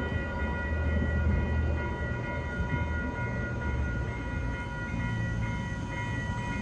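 Passenger train pulled by a diesel locomotive moving slowly over a level crossing, its low engine rumble fading a little as it goes. Over it, the crossing's warning bells ring with a steady high tone.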